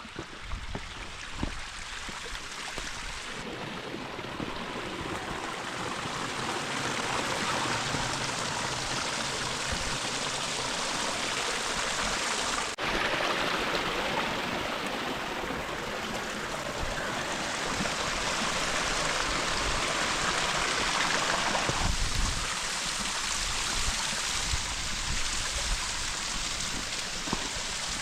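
Flowing water of a canyon stream and cascades: a steady rushing hiss that grows louder, breaks off sharply about 13 s in and then carries on.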